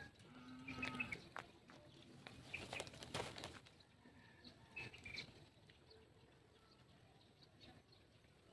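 Faint outdoor ambience with a few brief, high bird chirps, mostly in the first half.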